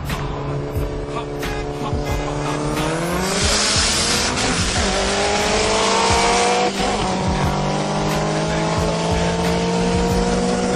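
Car engine heard from inside the cabin, pulling hard under full acceleration. Its pitch climbs, changes gear about four and a half seconds in, then climbs steadily again, with a rush of hiss around the gear change.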